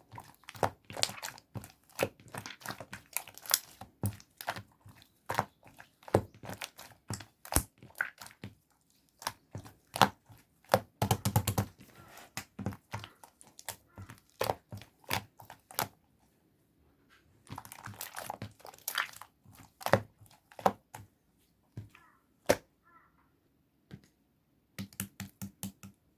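White clay slime being squeezed and pressed by hand, giving dense runs of sharp crackling pops as air pockets burst, with short pauses between handfuls.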